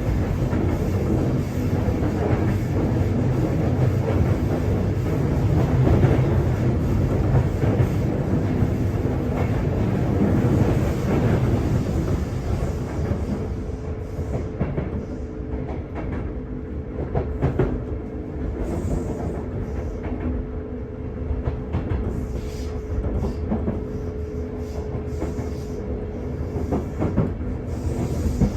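Sotetsu 8000-series electric train running, heard from inside a motor car: dense wheel and rail rumble with clicks over rail joints and a steady traction-motor whine. About halfway in the rumble grows quieter and the steady motor tone stands out more.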